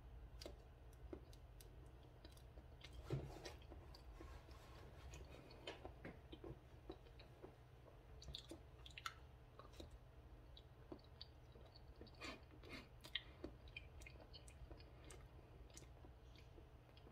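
Faint close-up mouth sounds of a person chewing a banana: soft wet smacks and small clicks, one louder smack about three seconds in.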